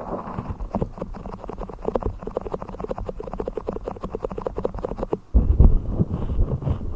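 A blue toy fish handled right at the microphone: a quick run of soft taps and squishes, then, about five seconds in, a louder low rubbing rumble.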